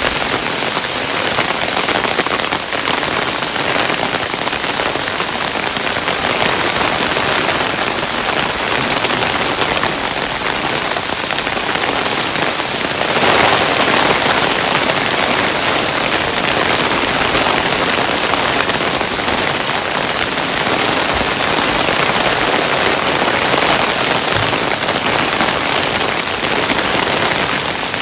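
Hailstones falling steadily: a dense patter of many small impacts, briefly heavier about halfway through.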